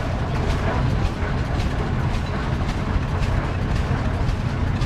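Vintage farm tractor engine running slowly, a low rumble with a steady beat of about three sharp pulses a second.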